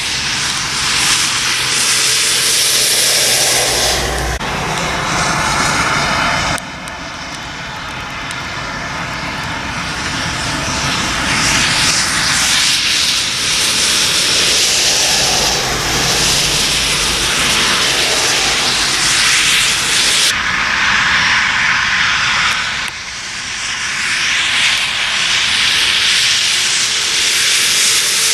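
Heavy lorries passing on a wet road: a loud, continuous hiss of tyres throwing up spray, swelling and fading as the trucks go by, with the sound breaking off and changing abruptly a few times.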